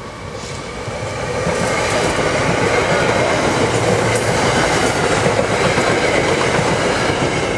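SEPTA Silverliner electric multiple-unit commuter train passing close by at speed. The rush of steel wheels on rail builds over the first second and a half and then holds loud and steady, with a rapid clickety-clack from the wheels.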